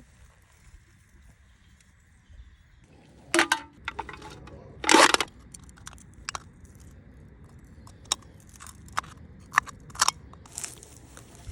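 Dry wood being broken and crunched by hand: two loud crunches about a second and a half apart, then several short sharp cracks.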